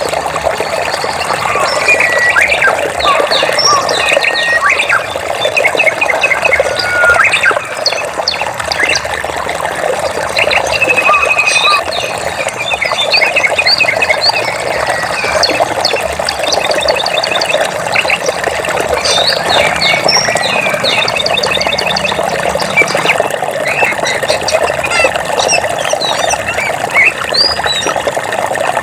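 Running stream water with many birds chirping and trilling over it, short calls and rapid note series coming and going throughout.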